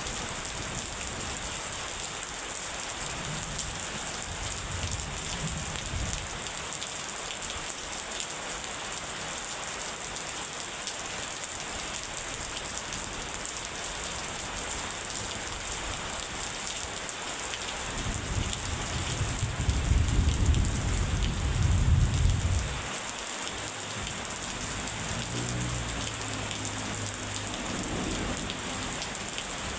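Steady rain falling, with thunder rumbling under it. A loud, long roll of thunder builds about two-thirds of the way in and cuts off abruptly. Fainter rumbles come a little after the loud roll and early in the rain.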